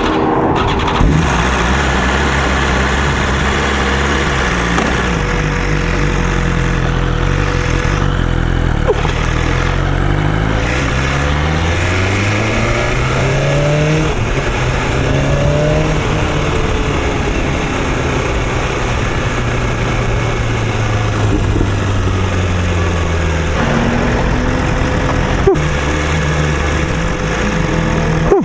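2021 BMW S1000RR's inline-four engine under way, with wind noise. It pulls up through the gears with several climbs in pitch, each cut short by an upshift, then holds a steady pitch, eases off and picks up again near the end.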